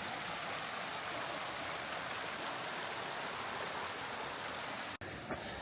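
Steady, even rushing of running water, cutting off abruptly about five seconds in.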